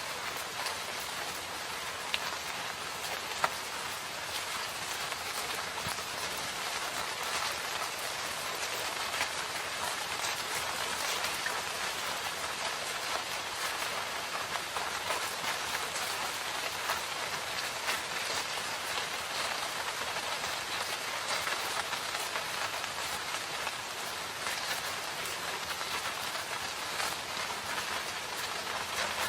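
Steady rain falling in a forest, a dense even hiss of drops on leaves and surfaces with scattered sharper drop ticks, a couple of them louder a few seconds in.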